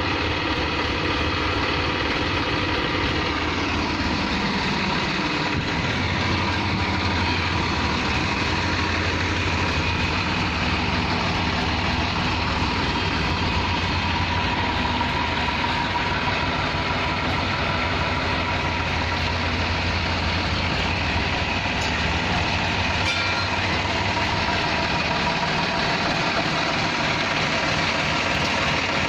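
Massey Ferguson 7250 tractor's diesel engine running steadily; its note glides down in pitch about four seconds in, then holds steady.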